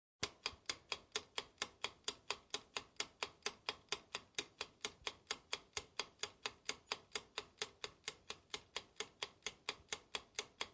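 Ticking sound effect like a fast clock or countdown timer: even, sharp ticks at about four to five a second, starting and stopping abruptly.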